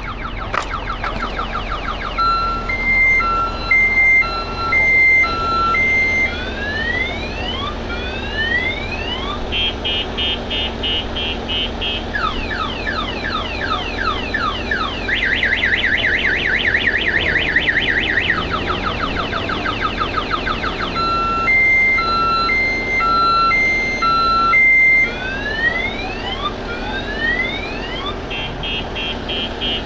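A crashed Toyota 4Runner's car alarm sounding, still working after the wreck. It cycles through its siren tones: a two-tone beep about once a second, a run of rising sweeps, then a fast warble, and the sequence starts over about 21 seconds in.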